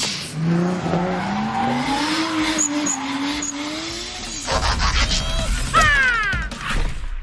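Car engine sound effect revving up slowly in pitch for a few seconds, followed near the end by a quick run of rising electronic sweeps.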